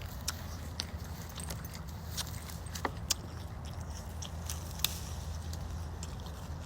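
Someone chewing a mouthful of fresh apple, with scattered sharp crunches over a steady low rumble.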